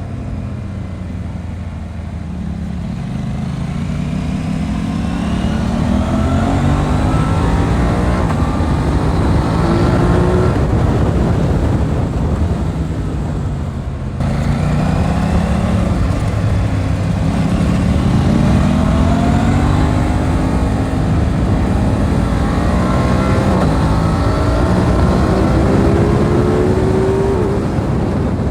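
Aprilia RS 660's parallel-twin engine accelerating through the gears, its pitch climbing and then dropping at each upshift, several times over. About halfway through the throttle briefly closes and the sound dips before the bike pulls hard through the gears again.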